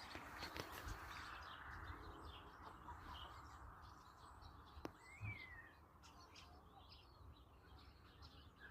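Faint birds chirping, with one clearer call that rises and then falls about five seconds in and a single sharp click just before it.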